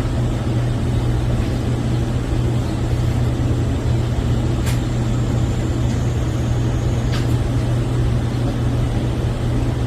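Model train running with its onboard sound playing a steady, low engine-like hum, with two faint clicks about halfway through and a little later.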